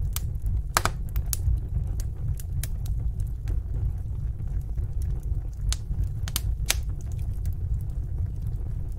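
Wood fire crackling in a fireplace: scattered, irregularly spaced sharp snaps and pops over a steady low rumble of the flames.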